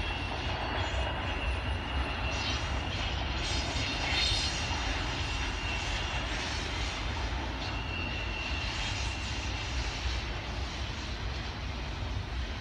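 Double-stack intermodal well cars rolling past on the rails: a steady rumble of steel wheels on track.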